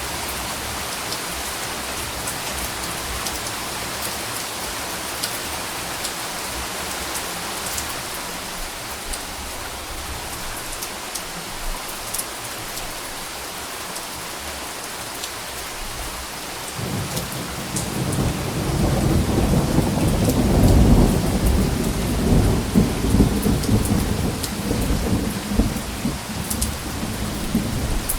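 Steady rain falling, with scattered drop ticks, then a low rumble of thunder building about two-thirds of the way in and rolling on to the end.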